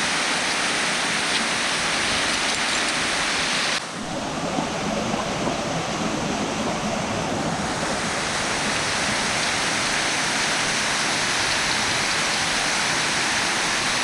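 Waterfall running, a steady dense rush of falling water. About four seconds in the sound dips suddenly and comes back with a slightly different, deeper rush.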